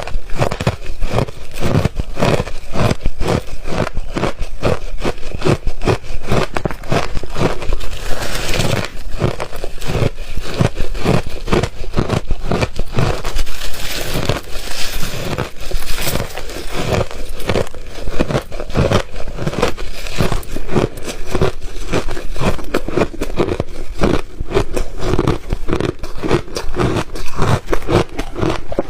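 A person chewing refrozen crunchy ice close to the microphone: a steady run of loud, rapid crunches, several a second.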